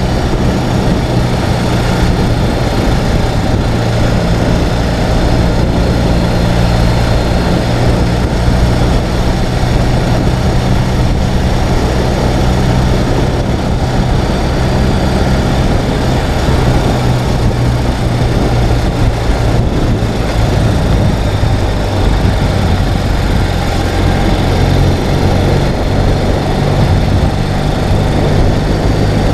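Ural sidecar motorcycle's flat-twin engine running steadily under way, its low engine note shifting slightly in pitch partway through.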